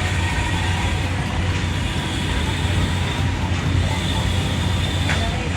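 Fairground teacups ride running: a steady low machinery hum under general fairground noise.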